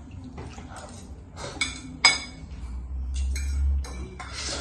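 Cutlery clinking against dishes while eating, several sharp metallic clinks with a short ring, the loudest about two seconds in.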